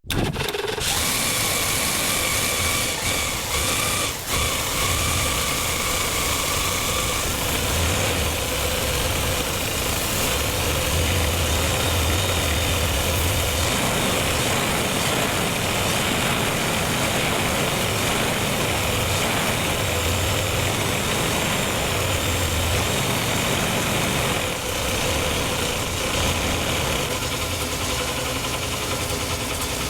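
Ford 300 inline-six engine running steadily on a freshly rebuilt engine that will not idle below about 2000 rpm.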